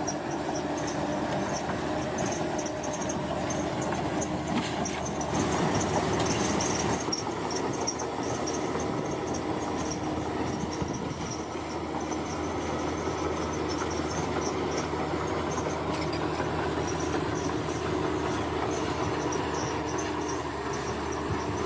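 Bulldozer's diesel engine running steadily under work, with clanking and scraping from the machine, louder for about two seconds some five seconds in.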